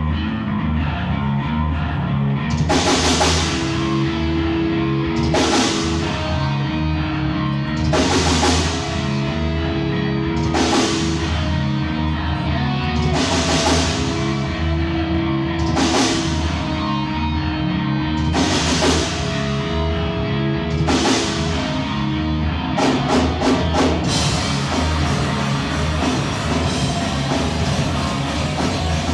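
Live heavy rock band playing loud, with guitar over a pounding low pulse and a drum kit. Crash cymbals hit about every two and a half seconds, then a quick run of hits about 23 seconds in gives way to steady cymbal wash.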